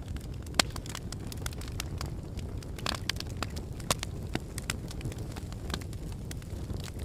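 Volcanic eruption or lava flow: irregular sharp cracks and crackling over a steady low rumble.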